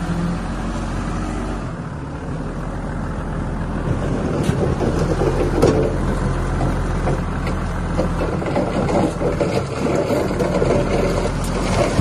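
Diesel engine of heavy earthmoving machinery running steadily; from about four seconds in, repeated clanks and rough scraping join it, as of the machine working dirt and rock.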